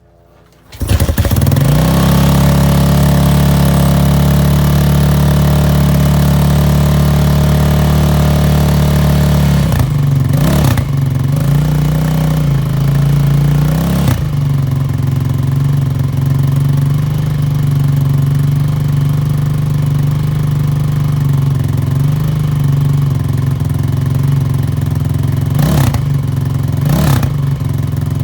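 Honda TRX450R quad's single-cylinder four-stroke engine firing up about a second in on its first start attempt after a complete engine rebuild, then idling steadily. It is blipped with short throttle revs a few times, around the middle and again near the end.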